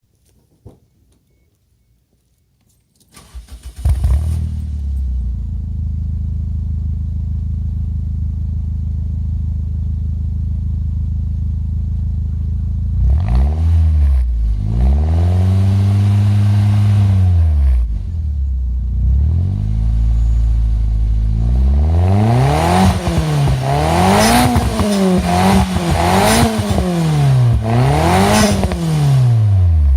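Toyota Starlet EP91's turbocharged 1.3-litre four-cylinder engine, breathing through a 5zigen Pro Racer aftermarket exhaust, is cranked and catches about four seconds in, then idles steadily. About halfway through it is revved up and held briefly, and it settles back to idle. Near the end it is blipped about five times in quick succession.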